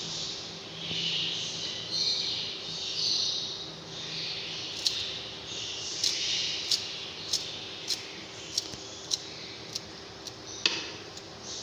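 Small pet birds chirping and chattering high-pitched. From about halfway in, sharp clicks come roughly once a second.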